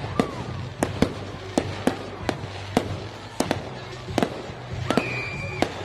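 Fireworks going off: a run of sharp bangs and cracks at uneven intervals, with a brief high whistle about five seconds in.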